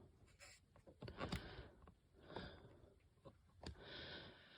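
Near silence: room tone with a few faint short clicks and soft breaths.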